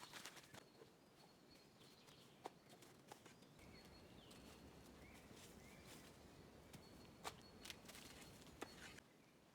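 Faint outdoor ambience: scattered light clicks and knocks, with a few short, faint high chirps.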